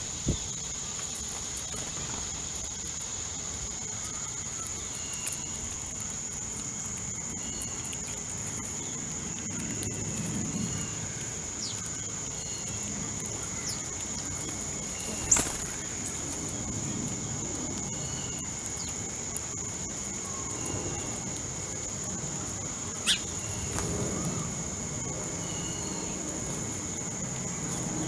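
Outdoor feeder ambience: a steady high insect drone, scattered soft chirps of small birds, and two brief sharp high bird notes, one about halfway through and one later on.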